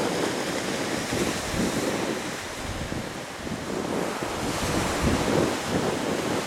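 Small waves washing up on a sandy beach, with wind buffeting the microphone in gusts.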